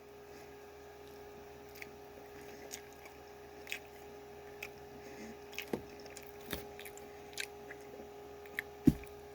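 Faint chewing and wet mouth clicks of someone eating a sauce-covered hot dog, with a short low thump near the end, over a steady faint hum.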